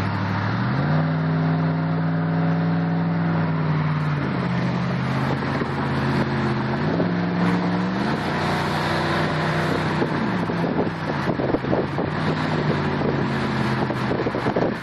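Jeep Commander's 4.7-litre V8 running with no muffler under way: the engine note climbs about a second in, drops back near four seconds, rises again in two steps, then falls away around ten seconds. As the throttle comes off, the open exhaust pops and crackles for a couple of seconds.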